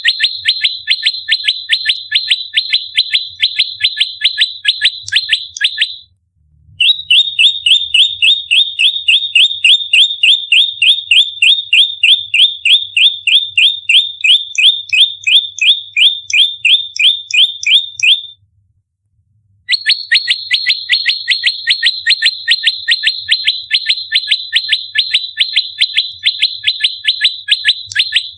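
Prenjak lumut giving its fighting call: a fast, tightly packed string of sharp, downward-sweeping chirps, about five a second. The string comes in three long bouts, broken by short pauses about six and eighteen seconds in.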